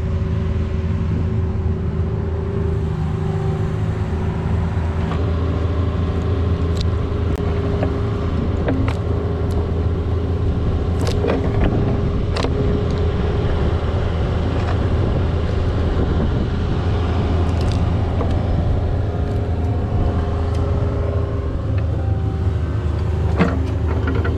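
Mini excavator's diesel engine running steadily under load while it digs, with occasional sharp clicks and knocks from the bucket working in soil and stones.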